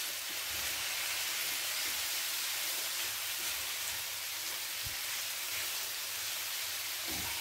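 Chicken pieces and chopped tomatoes sizzling steadily in hot oil in a frying pan.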